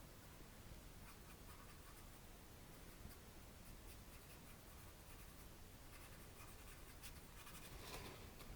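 Faint scratchy brushing of a paintbrush laying acrylic paint onto the painting, in short repeated strokes.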